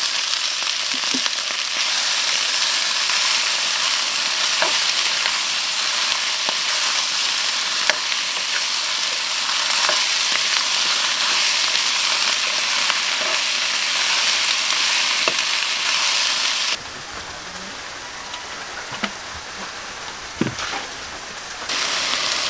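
Shelled mountain snails sizzling as they stir-fry in a hot oiled wok, with occasional scrapes of a spatula. About 17 seconds in the sizzle drops abruptly to a quieter level, then comes back loud near the end.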